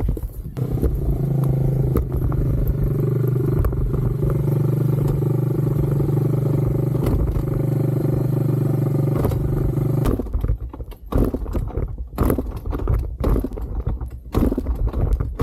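Dirt bike engine running at a steady idle, then cutting out about ten seconds in, followed by scattered knocks.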